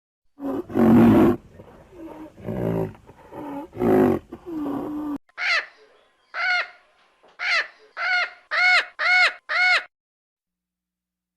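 Animal calls: first about five seconds of rough, harsh low calls, then a run of seven short, clear pitched calls, each rising and falling, coming closer together toward the end.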